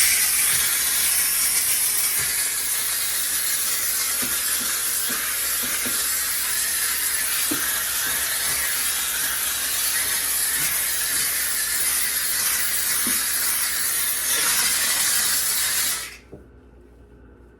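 McCulloch steam cleaner blowing a continuous jet of pressurised steam, a loud steady hiss that cuts off suddenly near the end.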